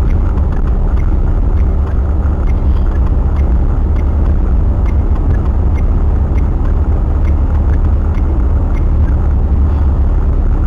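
Strong wind buffeting the microphone: a loud, steady, deep rumble.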